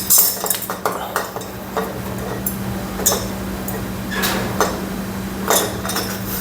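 Light metallic clinks and small knocks of motorcycle engine parts being handled as the cylinder is fitted and aligned over the piston, over a steady low hum.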